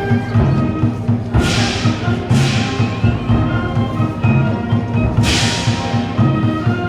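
Wind band playing held chords over a pulsing low beat, with three bright crashes that ring and fade: about a second and a half in, again a second later, and about five seconds in.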